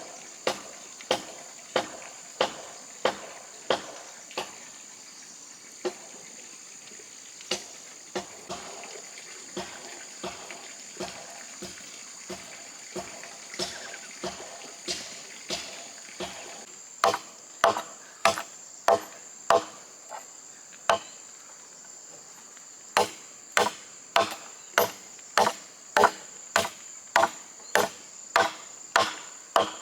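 Hammer blows driving nails into a wooden frame, struck steadily about one to two times a second, lighter through the middle and heavier again after a short pause. A steady high insect drone runs underneath.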